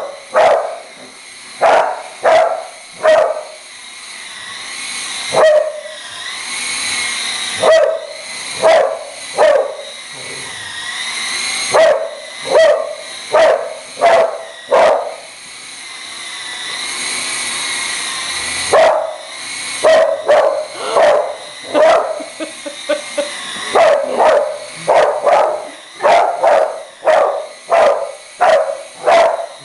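Pit bull barking in runs of sharp, repeated barks, about one to two a second. Three times the barking pauses while a steady, wavering whine with hiss builds up and then breaks off.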